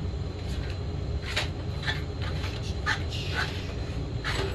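Small metal parts clicking and rattling a handful of times as a box of chainsaw parts is searched through, over a steady low hum.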